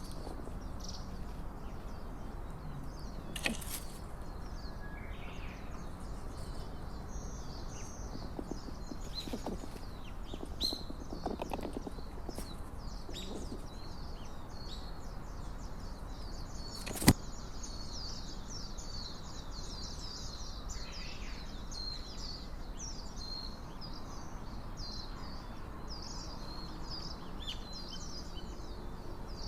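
Small birds chirping and twittering in quick high calls over a steady background hiss; the calls grow thicker in the second half. Two sharp clicks cut through: one a few seconds in, and a louder one just past the middle.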